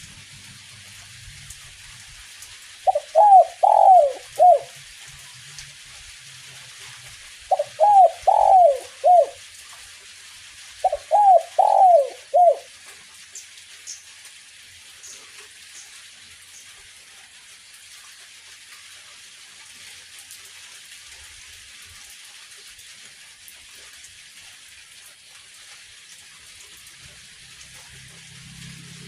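Spotted dove cooing: three phrases of several coos each, in the first half, then no more calls. A steady hiss of light drizzling rain runs underneath.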